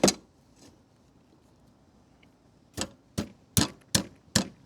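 Sharp metallic clicks from a hand tool working a fastener: one click at the start, then after a pause of nearly three seconds a steady run of clicks about two and a half a second.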